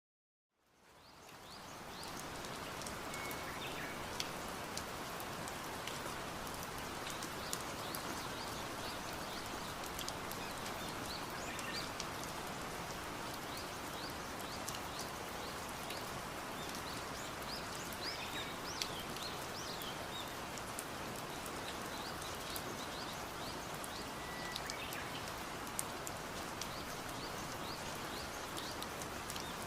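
Steady rain falling, with scattered drop taps, fading in over the first two seconds. Faint bird chirps come through now and then.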